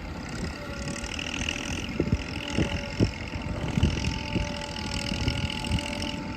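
Diesel engine of earthmoving machinery running steadily, with scattered short knocks and clanks over the rumble.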